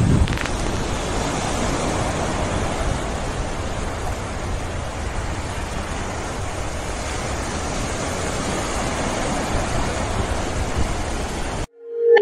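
Steady wash of sea surf on a beach, an even rushing noise that cuts off abruptly near the end.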